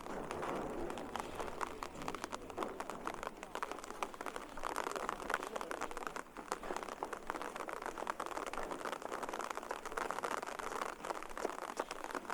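Light rain pattering as a steady patter of small ticks, with faint voices murmuring in the background.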